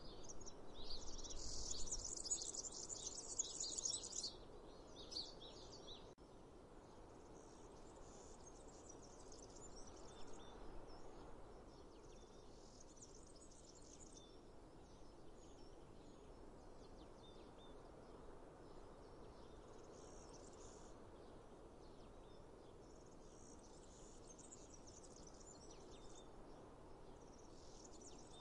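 Outdoor nature ambience: birds chirping and insects calling over a steady background hush. The chirping is densest and loudest in the first four seconds, then comes and goes in short patches.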